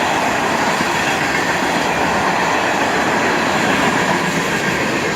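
Florida East Coast Railway freight train's cars, many of them tank cars, rolling past close by: a loud, steady noise of steel wheels on rail.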